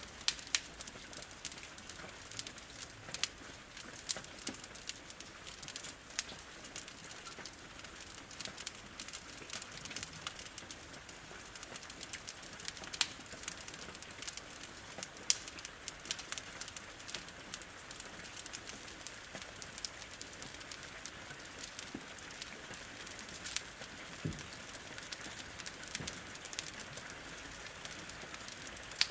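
Wood fire crackling with frequent, irregular sharp pops, over the steady patter of rain on a window.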